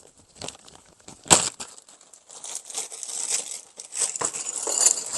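A plastic bag crinkling as small metal parts are put into it, with a sharp tap about a second in.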